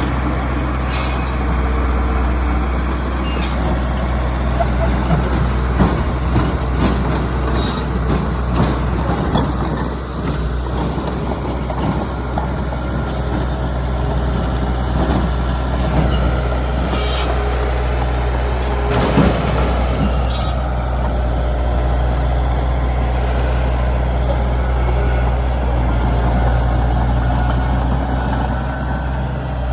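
Heavy diesel engine running steadily at a low, even drone, with scattered metallic clanks and a few short hisses.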